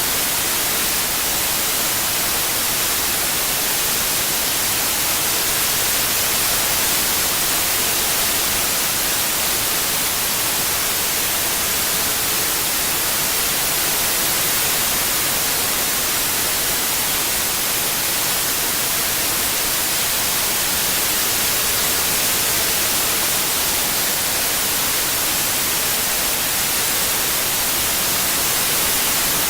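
Steady white noise, an even hiss with most of its energy in the high frequencies, unchanging throughout.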